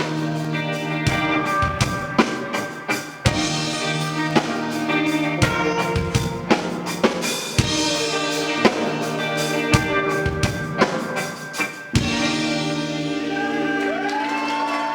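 Live band playing an instrumental passage: drum kit kick and snare hits driving over sustained chords. About twelve seconds in the drums stop and a held chord rings out with wavering, bending notes.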